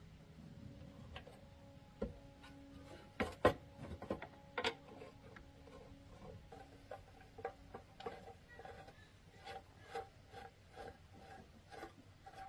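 A few sharp knocks, then a run of light clicks about two a second, like tools or parts being handled in a workshop.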